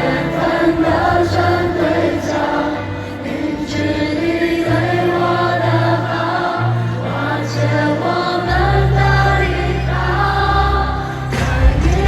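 Live pop concert music heard from the arena floor: slow, sustained chords with choir-like singing, and a deep bass coming in about eight and a half seconds in.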